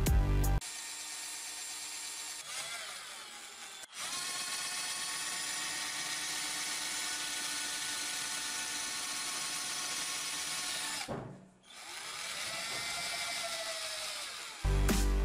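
Electric drill running with a steady whine. It cuts out sharply about four seconds in, and again for a moment near the eleven-second mark, with its pitch sliding as the motor slows and picks back up.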